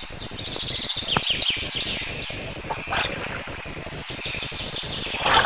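Small birds chirping in quick high trills over a steady low background noise, with a louder, short burst near the end.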